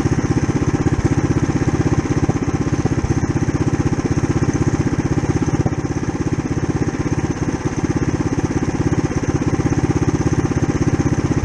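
Mini bike's small single-cylinder engine running at a steady speed with an even pulsing beat, not revving up.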